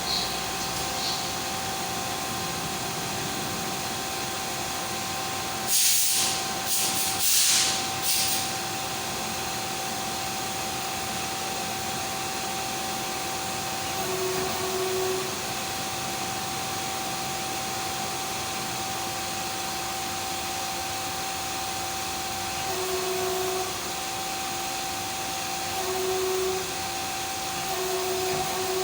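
Five-axis CNC machine running: a steady motor whine with a hum of air and a couple of held tones that step up and down in pitch now and then as the machine's moves change. About six to eight seconds in come several short, loud bursts of hissing.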